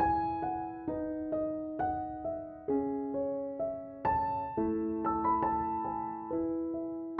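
Slow, gentle piano music: single notes and soft chords struck about every half second, each one ringing and fading away.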